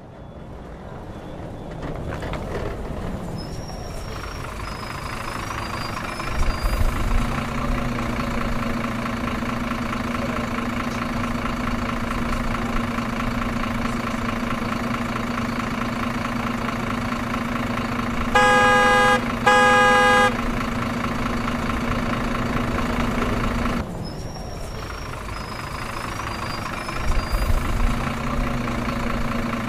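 Truck engine starting up and settling into a steady idle, with a brief louder burst about six seconds in. Two short horn honks sound about two-thirds of the way through, and near the end the same start-up sequence begins again.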